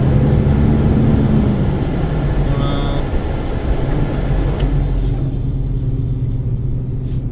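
Heavy truck's diesel engine running steadily, a low-pitched hum.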